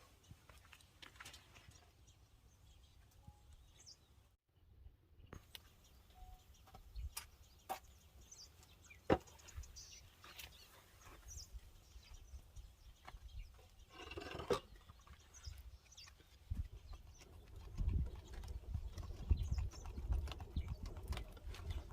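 Scattered clicks and knocks from handling things, with a few faint bird chirps and low rumbling in the last few seconds.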